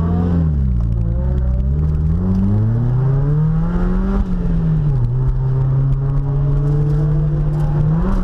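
Mazda Miata drift car's engine revving, its pitch falling and rising several times, then holding steady for a few seconds before climbing again near the end.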